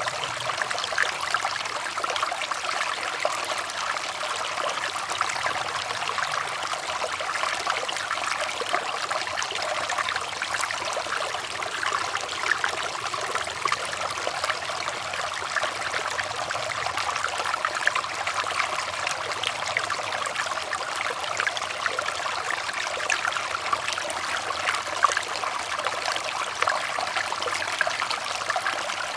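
Running water trickling steadily, like a small stream, with a fine, even crackle of splashes and little deep rumble.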